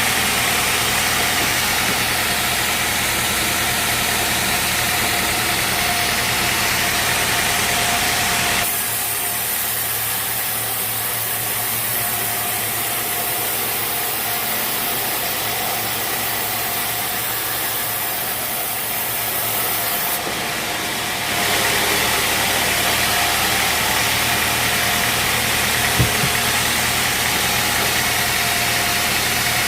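Portable bandsaw sawmill running: a steady engine drone with a held tone and blade hiss. About nine seconds in, the low drone drops away and the sound turns thinner and hissier for some twelve seconds, then the fuller drone returns. A single sharp knock comes near the end.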